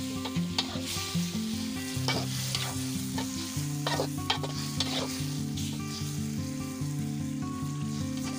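Squid stir-frying in its ink in a steel wok: steady sizzling, with a metal spatula scraping and clicking against the wok several times.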